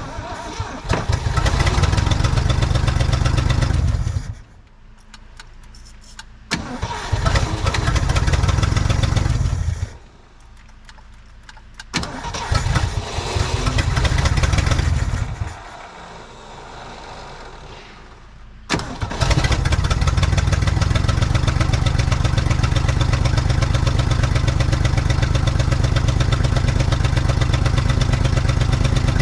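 1967 Ford F100's FE big-block V8, on its first start attempts after more than 20 years of sitting and fed only from fuel poured into the carburetor float bowl, catches and runs in three short bursts that die away. From about 19 s in it catches again and keeps running steadily.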